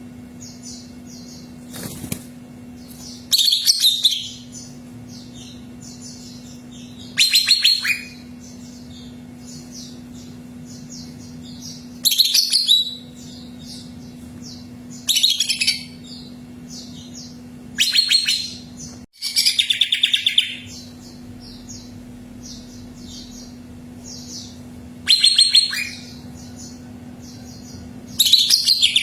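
Green leafbird (cucak ijo) singing: a loud burst of rapid, high chattering notes, each about a second long, comes every three to five seconds, with softer chirps between the bursts. A steady low hum runs underneath.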